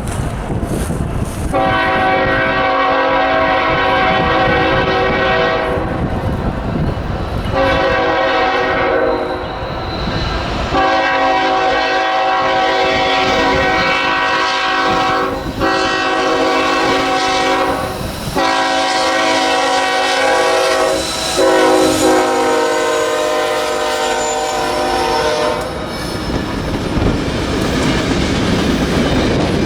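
Diesel freight locomotive's multi-chime air horn sounding about six blasts, mostly long and separated by short breaks, over the steady rumble and clickety-clack of the passing train. The horn stops near the end, leaving only the train's rolling noise.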